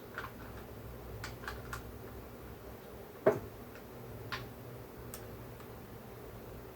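Scattered light clicks and taps of hand tools and small parts being handled during a chainsaw teardown, with one louder knock about halfway through.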